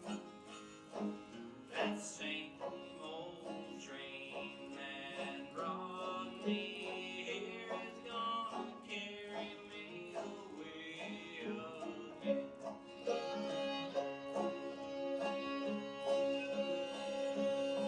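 Bluegrass string band playing an instrumental break: banjo and guitar picking quick notes, with a fiddle coming in on a long held note for the last few seconds.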